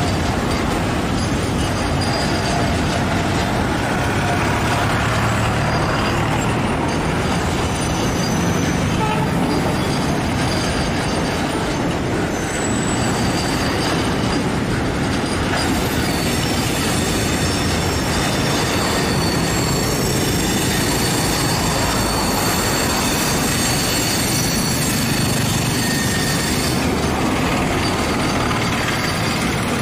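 A long rake of BTPN tank wagons rolling past on the rails: a steady, loud rumble of wheels on track, with thin high-pitched wheel squeals, more of them in the second half.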